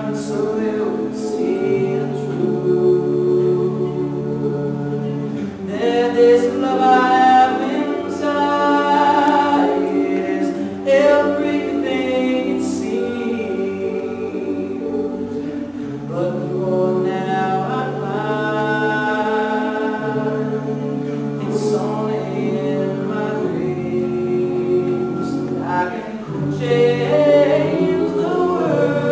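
Men's a cappella group singing in close harmony: a held bass line under sustained chords, with moving upper voices and no instruments.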